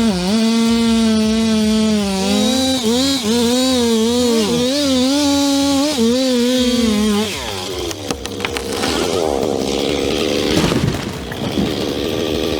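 Chainsaw running at high revs, its pitch dipping and recovering over and over as the chain bogs in the cut. About seven seconds in the steady note breaks off and a rougher, busier saw sound follows.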